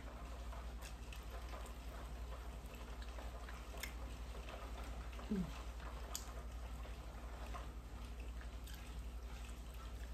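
Wet chewing and lip-smacking with scattered small clicks as a hot wing flat is eaten, over a low steady hum.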